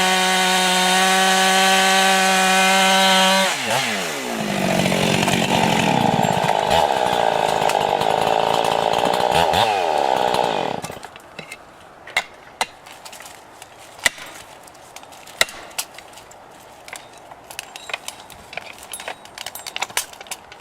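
A chainsaw runs at full throttle with a steady high whine, then bogs down in pitch as it cuts into wood, about three and a half seconds in and again near ten seconds. The engine cuts out at about eleven seconds, leaving scattered sharp knocks and clicks.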